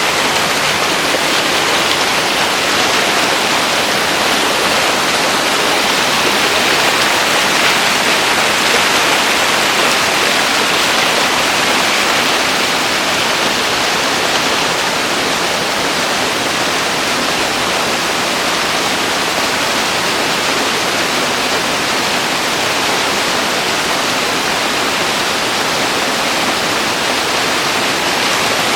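Waterfall in a cloud forest: water pouring and splashing in a loud, steady rush.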